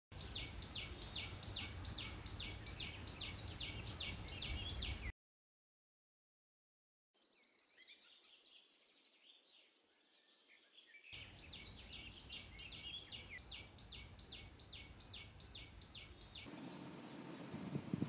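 Small bird chirping in a rapid series of short, falling chirps, about three a second, at a nest with nestlings. The series breaks off suddenly about five seconds in and starts again later. Near the end it gives way to a fast, high-pitched pulsing.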